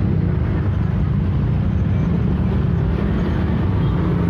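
Busy street noise: a steady low rumble of traffic mixed with the hubbub of a large crowd.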